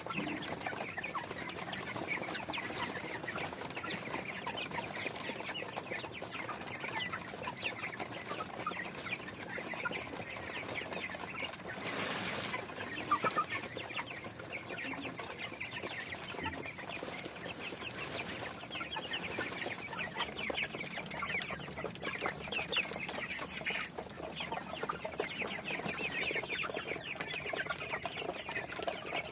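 A flock of chickens clucking and calling over one another, a dense, continuous chatter of many short calls.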